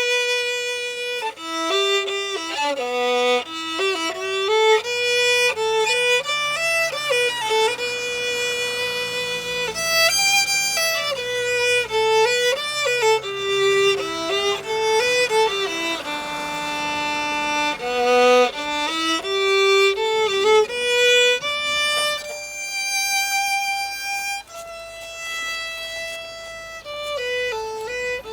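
Background music led by a solo violin playing a flowing melody.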